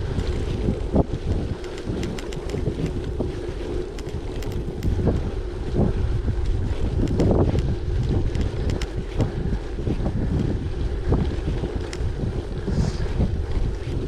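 Wind buffeting the microphone on a moving gravel bike, over the steady hum of its tyres rolling, with many small clicks and rattles from the bike.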